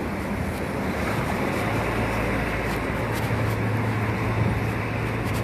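Steady Midtown street noise: a dense traffic rumble, with a low engine hum from an idling vehicle coming in about a second and a half in.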